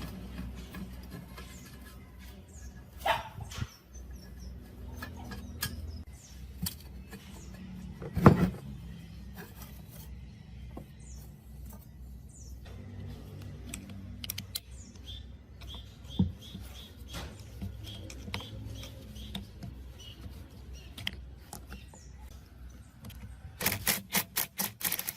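Irregular clicks and knocks over a low steady hum, with one loud knock about eight seconds in and a quick run of clicks near the end.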